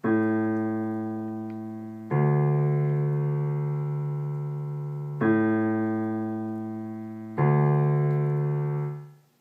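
Keyboard playing the left-hand part: A and D octaves (thumb and pinky) alternating, four notes in all, each held for about two to three seconds and left to fade slowly. The last one dies away near the end.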